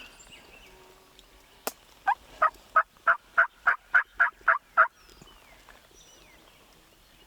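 Turkey yelping: a run of about ten short, evenly spaced yelps, about three a second, preceded by a single sharp click.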